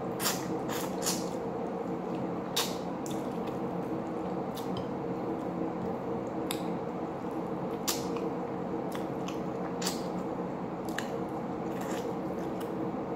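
Wet chewing and lip-smacking while eating fish and rice by hand, with sharp, irregular mouth clicks every second or so, over a steady background hum.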